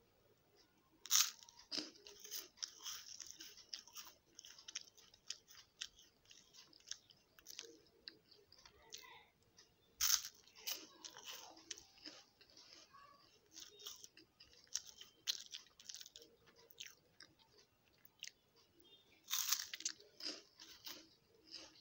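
Crisp wafer stick bitten with a loud crunch three times, about a second in, about ten seconds in and near the end, with crunchy chewing of the wafer in between.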